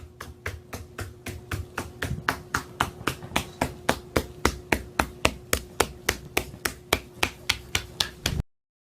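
A bird's feet tapping on a hard surface as it walks: quick, even taps, about four or five a second, over a faint steady hum, stopping suddenly near the end.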